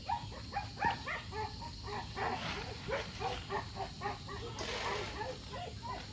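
Several kennel dogs, American Bullies, barking and yelping in quick short calls that overlap one another.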